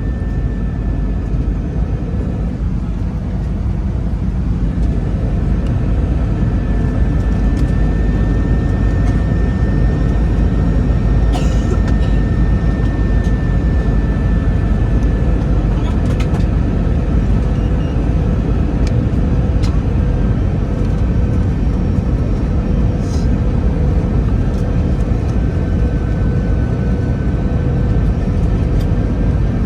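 Cabin noise inside an Airbus A321 descending to land: a steady rush of airflow and hum of the jet engines, with a thin steady whine over it. It grows slightly louder about five seconds in.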